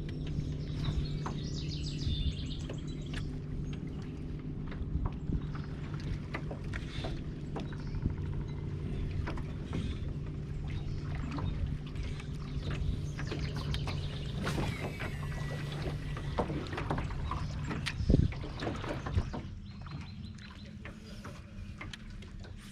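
A boat motor's steady hum, with scattered clicks and knocks from casting and reeling. One sharp knock comes near the end, and the hum stops just after it.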